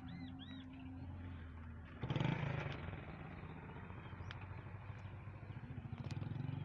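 Tractor diesel engine running, then revved hard about two seconds in and held there with a rapid, pulsing firing beat.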